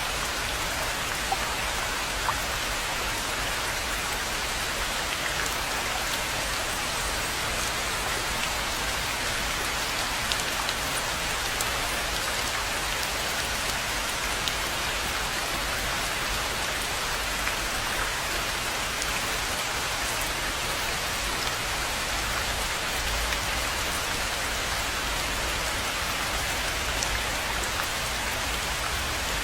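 Steady rain falling on a pond and the foliage around it, an even hiss with a few louder individual drops.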